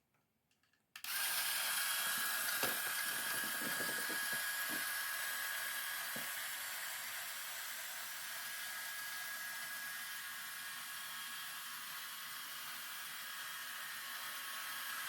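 Mould King 10168 V8 building-block engine model switched on about a second in, its motor and plastic pistons and gears running with a steady whirring clatter, with a few sharp clicks early on.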